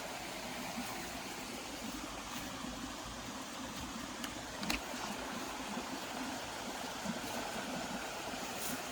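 Steady outdoor rushing noise, like a stream running, with one faint click about halfway through.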